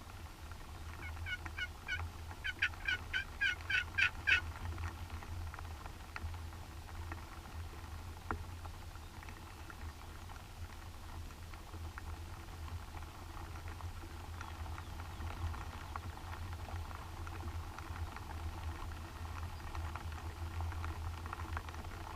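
Turkey calling: a run of about ten evenly spaced, yelp-like notes over some three seconds, each louder than the last, over a steady low hum.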